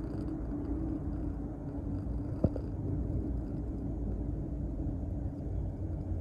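A cat purring steadily close to the microphone, a continuous low rumble. A single short click comes about two and a half seconds in.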